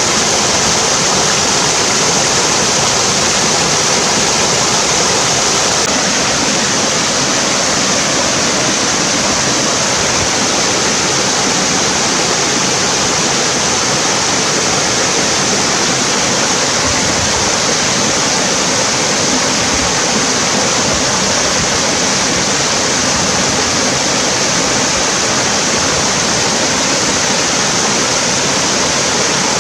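Mountain stream rushing loudly and steadily over rocks and small cascades, a constant hiss of white water with no change.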